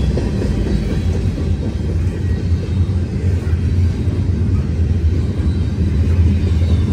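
CN Railway freight train passing close by: a loud, steady low rumble of the train on the rails, with a deep drone that grows stronger in the second half.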